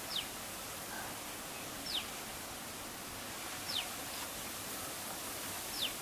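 A bird gives four short high calls, each sliding down in pitch, about two seconds apart, over a steady hiss of rain.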